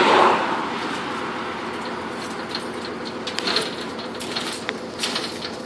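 1970 Chevy C30 dump truck's engine idling steadily, with scattered metallic clicks and clanks from the load shifting on the raised dump bed.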